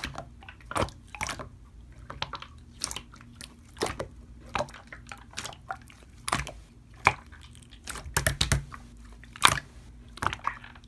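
Slime being squished and played with, giving irregular wet clicks and small pops.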